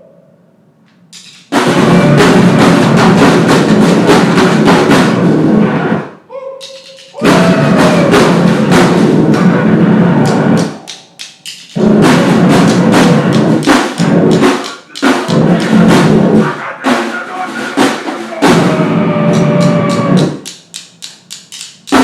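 Live noise-grind band playing in full blasts of drums and distorted noise. The blasts cut off abruptly into short gaps and stop-start stabs, with a wavering, whining tone running through some of them.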